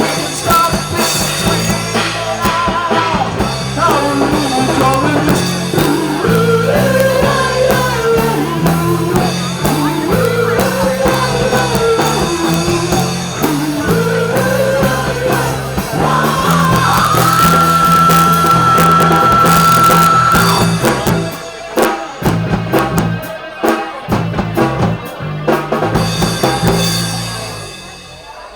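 Rock song with singing over drums and bass. A long high note is held about two-thirds of the way in, then the band breaks into choppy stop-start hits that fade out near the end.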